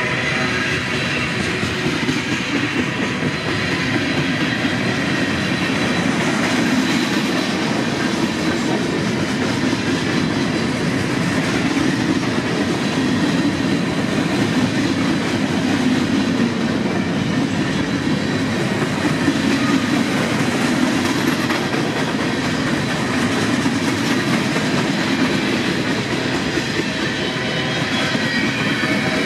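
Freight train rolling steadily past, its cars' wheels clattering over the rails.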